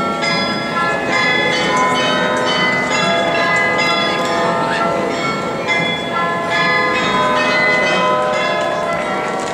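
Several large bells pealing together, many overlapping strikes at different pitches ringing on into each other.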